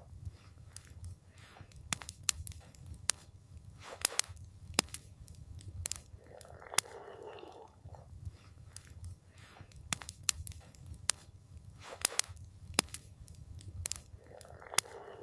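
Campfire crackling, with sharp irregular pops and snaps from the burning wood over a low steady rumble. A brief soft rushing swell comes about seven seconds in and again near the end.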